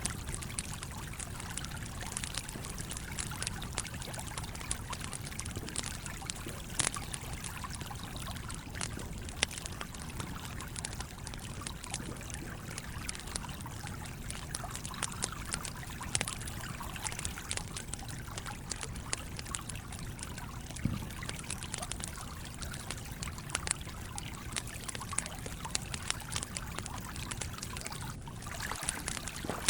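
Wood fire crackling and popping in irregular sharp snaps over the steady trickling flow of a stream.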